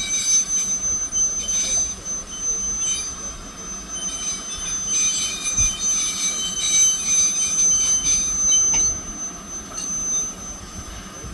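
A train's wheels squealing on the rails, a steady high-pitched squeal with shriller screeches coming and going over it.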